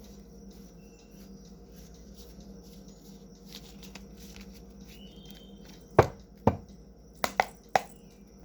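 Tarot cards being handled over a steady low hum. About six seconds in come two sharp knocks half a second apart, then three lighter taps.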